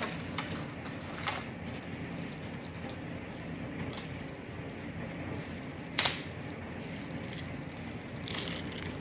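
Small plastic fuel pump parts being handled: scattered light clicks and rustling as the float and its keeper are fitted, with one sharp snap about six seconds in, over a steady low shop hum.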